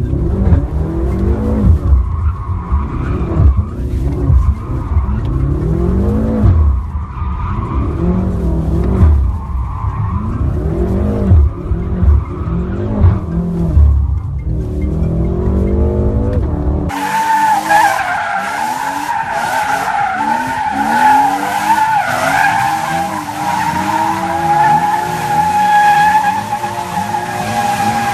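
Drifting car's engine revving up and down over and over, with tyres squealing and skidding. About two-thirds of the way through the sound changes abruptly to a loud, steady, high tyre squeal over the revving engine.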